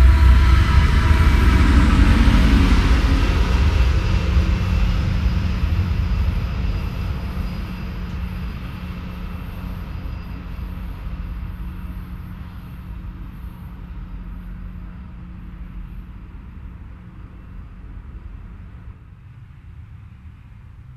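Freight train of coal hopper cars rolling past on jointed track, wheels and cars rumbling, loudest at the start and fading steadily away over the following seconds, with a steady low hum underneath.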